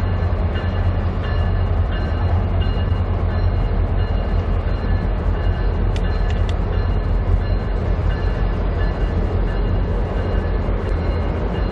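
Diesel-hauled passenger train rolling past with a steady, loud rumble of wheels on the rails and a deep low drone. A few faint steady high tones run through it.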